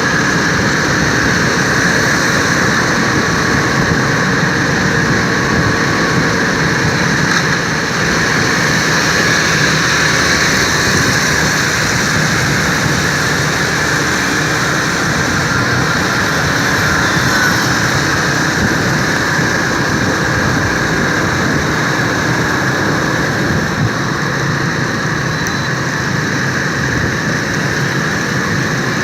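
Steady road noise from riding a motorbike through city traffic: a constant rush of wind and engine and tyre noise with no distinct events.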